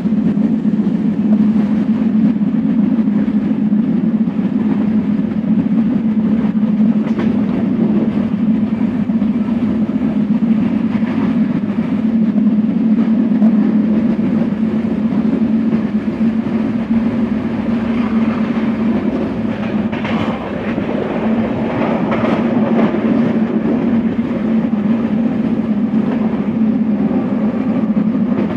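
Passenger train running at speed, heard from inside a carriage: a steady low rumble of wheels on the rails, with a few sharper clatters about two-thirds of the way through.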